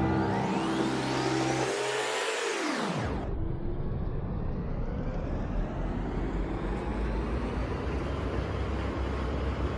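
Steady low rumble and hiss of a train, which starts about three seconds in. Before it, a sweeping edit effect in the background music bends up and then drops away.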